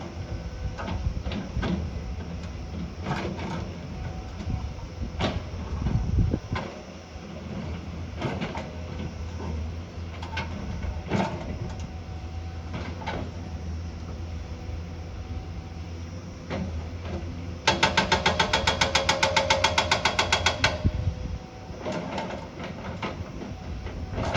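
Diesel engine of heavy earthmoving machinery running with a steady low rumble, broken by scattered metallic clanks and knocks. About three quarters of the way through comes a loud rapid rattling pulse, about ten a second, lasting some three seconds.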